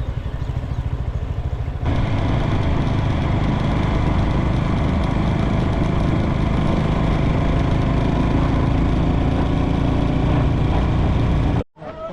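Motorcycle engine running with an even pulsing beat, then about two seconds in it turns suddenly louder and noisier as the bike rides on. The sound cuts off abruptly near the end.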